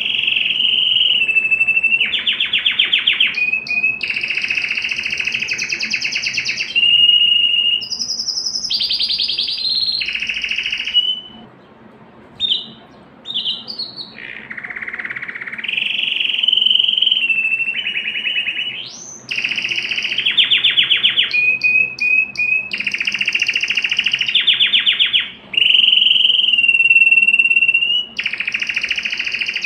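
A domestic canary singing a long, loud song of rapid trills alternating with long held whistled notes, with a brief break near the middle.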